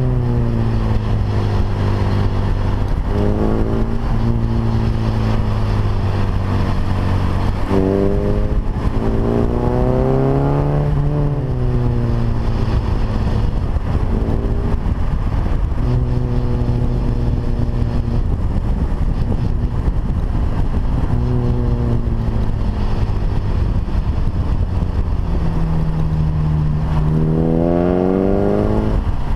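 Datsun Fairlady 1600 roadster's swapped-in SR20 four-cylinder engine pulling the car along at a steady pace, heard from outside beside the front wheel. The engine note climbs in pitch twice, about eight seconds in and again near the end, dropping back after each rise, over a steady rush of road and wind noise.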